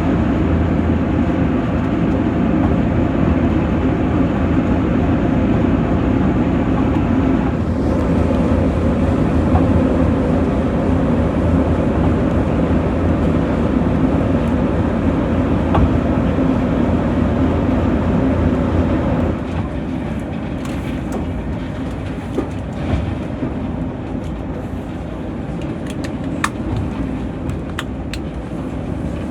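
Diesel-hauled passenger train running, heard on board: a steady diesel engine drone over rail rumble. It drops noticeably in level about two-thirds of the way through, and a few sharp clicks follow.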